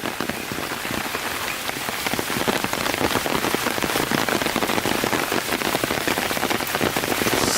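Steady rain falling, with a dense, even hiss of many close drop hits.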